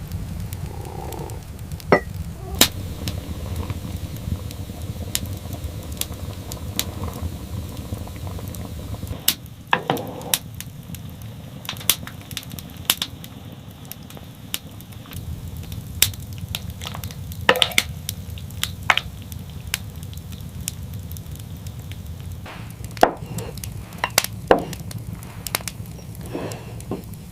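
Wood fire crackling, with irregular sharp pops and snaps, a few of them loud, over a low steady rumble.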